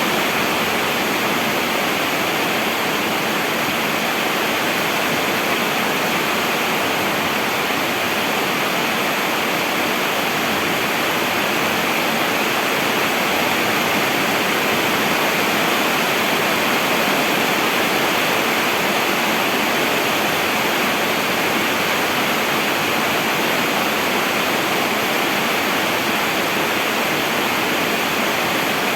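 Rain falling steadily, a dense even hiss with no breaks or changes.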